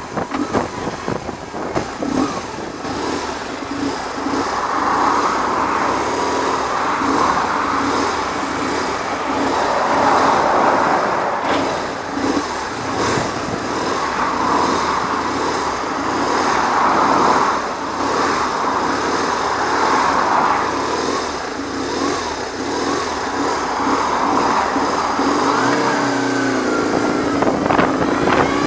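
BMW R1100R boxer-twin motorcycle running at road speed, with heavy wind noise buffeting the microphone that swells and fades every few seconds. The wind noise comes from the bike's screen.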